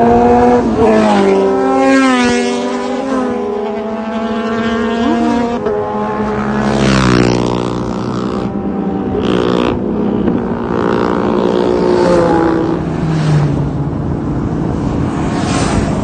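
A group of motorcycles riding past one after another. Their engines run at speed, and each engine's pitch drops as it goes by. The loudest pass comes about seven seconds in.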